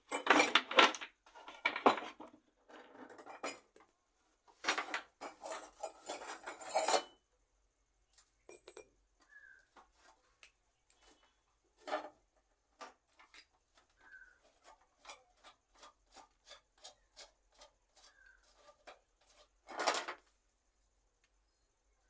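Metal parts clattering and clinking as they are handled, with two longer stretches of rattling near the start and one more near the end. In between comes a run of light, evenly spaced clicks, about two a second.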